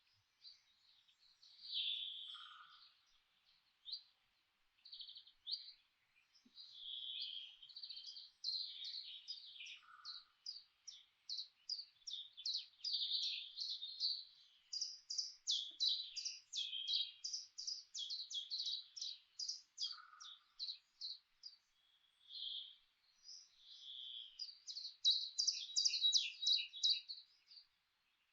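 Songbirds chirping and singing in a forest, in quick runs of short high notes that thicken in the middle and again near the end. A lower single call repeats about three times, roughly every eight to ten seconds.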